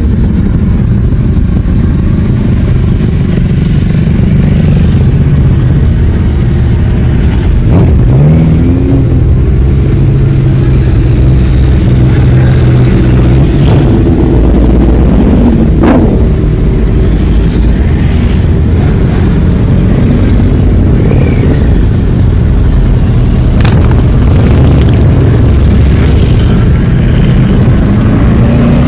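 A stream of motorcycles riding past, engines running loud, with one revving up about eight seconds in and a few sharp cracks among them.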